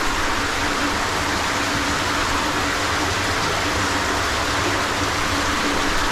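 Steady rush of flowing water from a cave stream.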